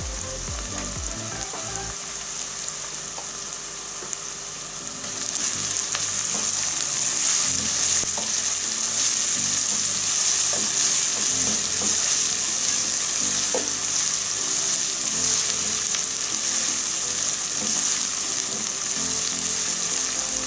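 Sliced onions frying in hot oil in a nonstick pan, sizzling steadily, with garam masala just stirred in. A wooden spatula stirs and scrapes through them, and the sizzle gets louder about five seconds in.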